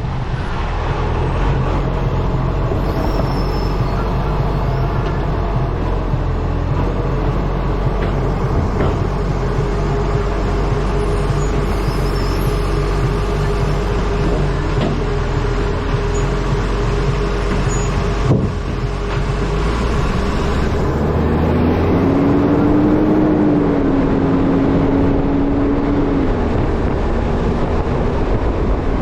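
A truck driving down the road, heard through a camera mounted on its front: steady wind rush on the microphone over the low drone of the engine. About twenty seconds in the engine note changes, and a new hum rises and then holds steady.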